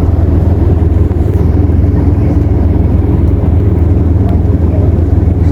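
An engine running steadily: a loud, even low drone with no change in speed.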